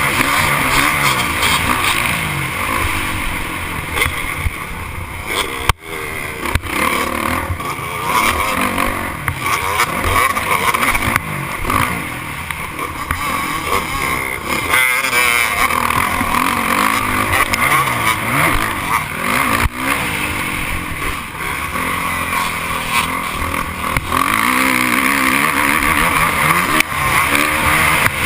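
Several motocross dirt bikes racing, their engines revving up and falling back continually as they accelerate and shift, loud throughout with a brief dip about six seconds in.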